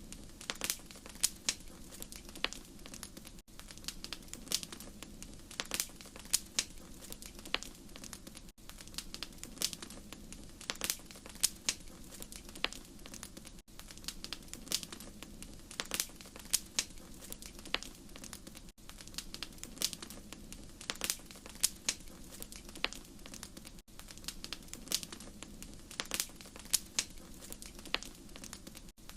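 Wood fire crackling: irregular sharp pops and snaps over a steady low rush, broken by a brief dropout about every five seconds.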